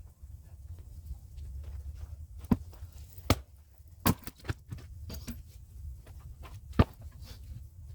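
Split firewood knocking and clattering: a handful of sharp, irregular wooden knocks over a low steady rumble, sped up by double-speed playback.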